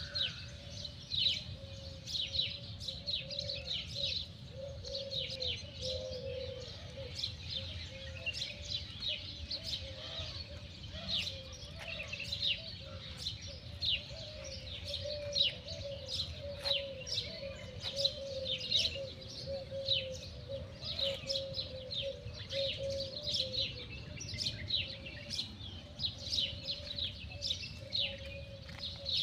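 Many small birds chirping continuously in quick, short high calls, over a steady, slightly wavering hum.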